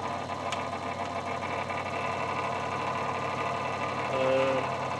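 Workzone scroll saw running with no load, its motor and reciprocating blade mechanism making a steady mechanical hum. There is a brief click about half a second in, and a short pitched sound a little after four seconds in.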